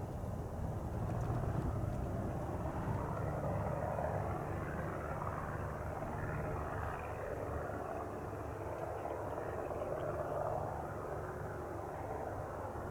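Cessna 172 Skyhawk's single piston engine and propeller at full takeoff power, a steady drone that eases slightly near the end as the plane departs.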